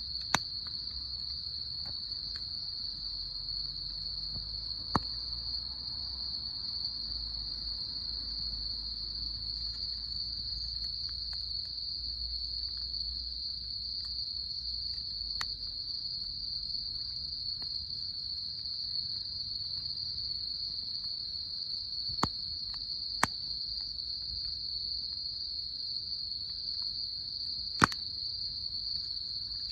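Insects, likely crickets, chirring in a steady high unbroken drone, with a scattering of sharp single pops, about six, from a wood campfire crackling.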